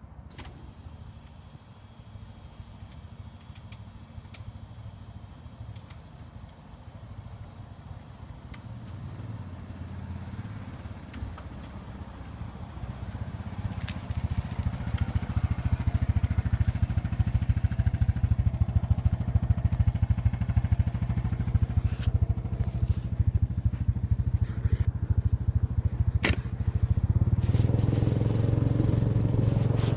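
Motorcycle engine running, faint at first and growing much louder about halfway through, then holding steady, with a few scattered clicks.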